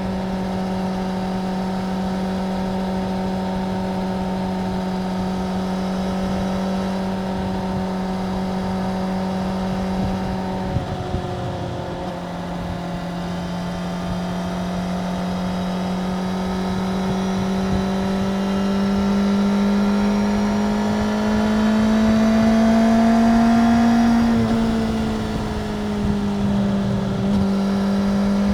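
Suzuki GSX-R750 inline-four engine running at a steady speed. The pitch dips briefly about eleven seconds in, then climbs slowly and gets louder, and eases back down near the end.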